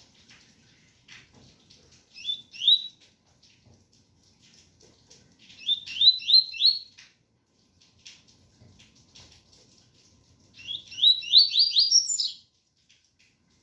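Double-collared seedeater (coleiro) singing the 'tui-tui' song: three bursts of quick rising whistled notes, the last the longest and ending higher, over a faint patter of rain.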